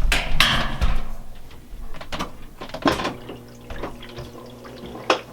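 Admiral (Whirlpool-built) belt-drive top-load washer sensing its load: a few knocks and clunks, then a steady motor hum from about three seconds in, cut off with a sharp click near the end.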